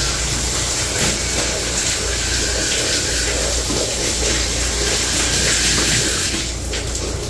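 Hot water spraying steadily from a hose onto iced-up refrigeration equipment to melt the ice and clear the drain, with a steady low hum underneath. The spray eases off about six and a half seconds in.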